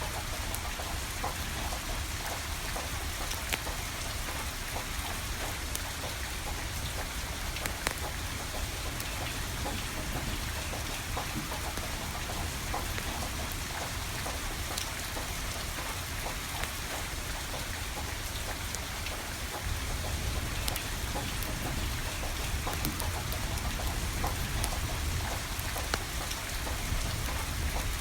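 Steady rain falling, with scattered sharp crackles and pops from a burning wood fire, over a low rumble. It grows slightly louder about two-thirds of the way through.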